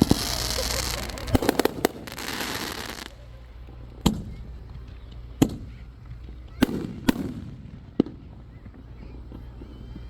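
Aerial fireworks: a dense crackling fizz with several sharp bangs for the first three seconds, then single shell bursts at irregular intervals, each trailing off in a short echo.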